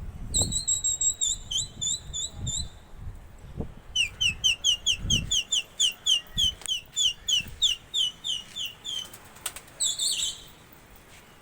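A bird calling in two fast runs of short, high, repeated chirps, about four a second, with low thumps underneath in the first half.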